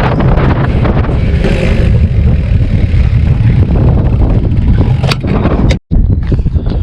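Heavy wind buffeting an action camera's microphone while cycling: a loud, steady low rumble, with a short dropout to silence near the end.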